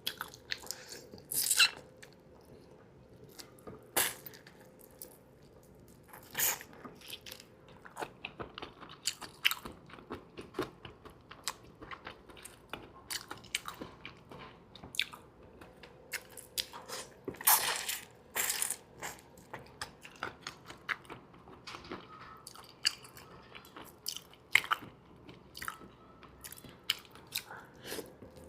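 Close-miked eating of seafood: irregular crisp bites and crunches with chewing in between, a few bites much louder than the rest.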